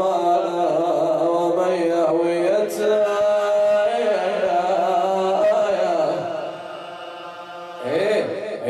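A man chanting a mournful Arabic elegy in long, held, wavering notes. The voice drops softer about six seconds in, then starts a new phrase near the end.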